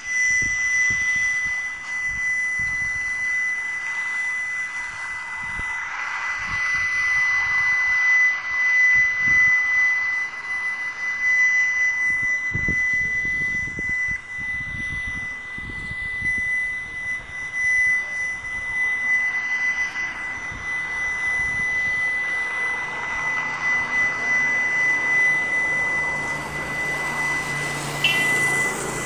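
A loud, steady, unexplained humming drone heard from the sky, a horrible hum with a constant high whine over a broader whooshing rush that swells and eases twice. Gusts of wind rumble on the microphone.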